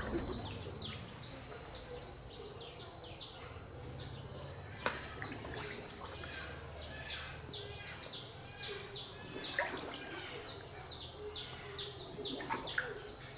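Small birds chirping over and over: many short, high chirps that drop in pitch, with a faint steady high whine underneath. Two sharp clicks, about five seconds in and near ten seconds.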